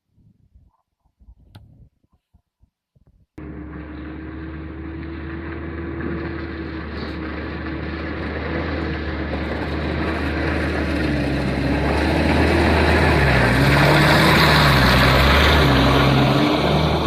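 Mitsubishi Pajero 4x4's engine running under load on an off-road run, its revs wavering up and down and the sound growing louder for about ten seconds. Faint knocks come before it starts abruptly about three seconds in.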